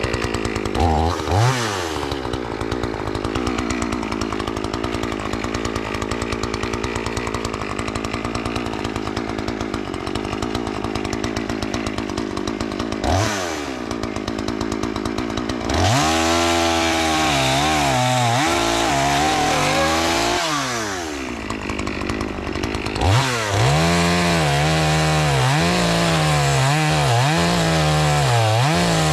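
Chainsaw engine running while cutting a fallen tree into pieces. It holds fairly steady for the first dozen seconds, then revs up and down repeatedly through the second half.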